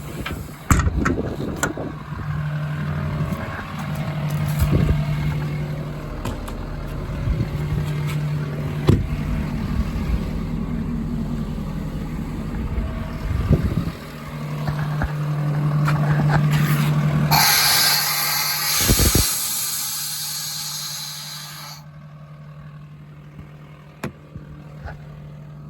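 Service truck's 6.7 Power Stroke diesel and hydraulic equipment running with a steady low hum, with scattered clanks and knocks. From about two-thirds of the way in, a loud hiss of escaping air lasts about four seconds, after which the sound drops to a quieter hum.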